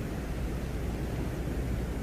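Steady, deep rumbling noise with no distinct events, presented as the Venera 13 lander's recording of the sound at the surface of Venus.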